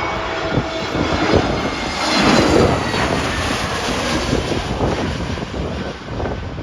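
Jet airliner passing low overhead on final approach to land: a roar with a faint engine whine, loudest about two seconds in, then easing away. Gusty wind buffets the microphone underneath.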